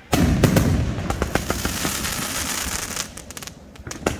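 A 500-gram firework cake firing: a loud volley of shots right at the start, then a dense crackling of many sharp pops over a hiss that dies away after about three seconds. Another volley begins near the end.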